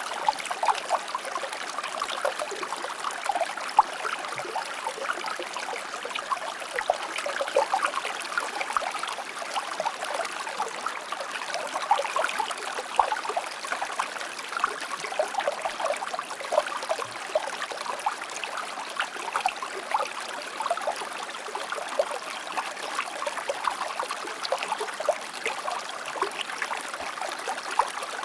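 A shallow river or stream flowing steadily over rocks, with continuous babbling and small splashes.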